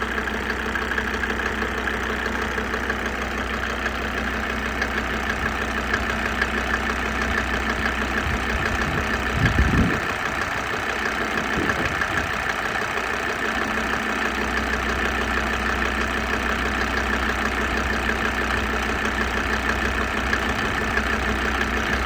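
Mercedes-Benz OM605 five-cylinder diesel idling steadily soon after a cold start, with its glow plugs still on; it runs evenly without misfiring. A brief low thump about ten seconds in.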